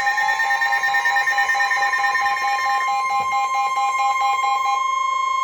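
NOAA Weather Radio warning alarm tone: a steady, single high tone (1050 Hz) held before a warning message. Rapid pulsed beeping tones sound over it at first; they stop about three seconds in and again near the end, leaving the steady tone alone.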